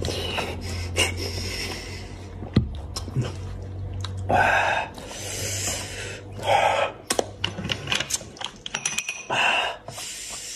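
Close-up wet eating sounds of a person chewing and tearing apart spicy braised goat's head meat by hand: rapid lip smacks and mouth clicks, with louder sucking bursts about four seconds and six and a half seconds in.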